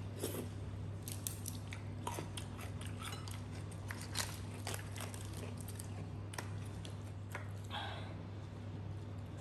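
A person chewing and biting into crab, with many short sharp crunches and clicks scattered throughout.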